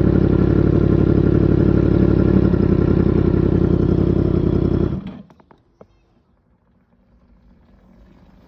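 Yamaha MT-10 motorcycle's crossplane inline-four engine idling steadily through its exhaust, then switched off about five seconds in. The engine stops abruptly, followed by a few faint clicks.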